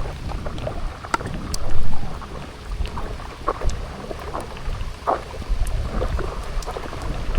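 Rain falling, with scattered close drops ticking and a low rumble underneath, loudest about two seconds in.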